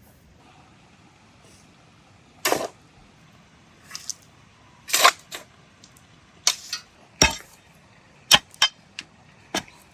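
A series of about ten irregular sharp knocks and short scrapes, spaced unevenly.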